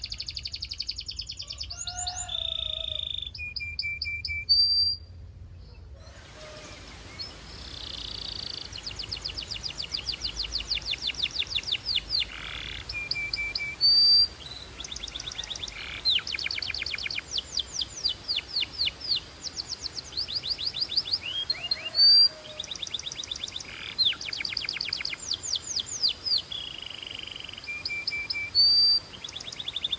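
Belgian canary singing: long, fast trills of rapidly repeated notes, broken by short single whistled notes.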